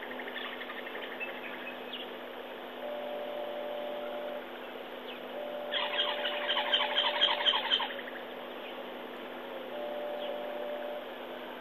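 Birds calling in the bush. The loudest is a burst of rapid repeated chattering notes lasting about two seconds, starting about six seconds in. A steady low hum lies underneath.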